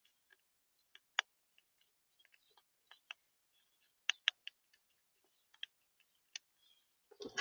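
Irregular sharp clicks and taps of feeding at a bird feeder, seed being pecked or cracked against the feeder, with a louder rustling scuffle just before the end.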